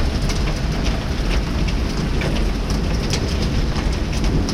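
Heavy rain and hail pelting down: a steady loud downpour hiss, with frequent sharp ticks of hailstones striking hard surfaces.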